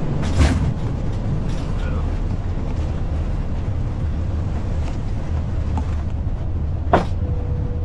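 Steady low rumble of an Airbus A340 rolling out on the runway after touchdown, heard in the cockpit, with two brief knocks, one about half a second in and one near the end. A steady, even tone starts just before the end.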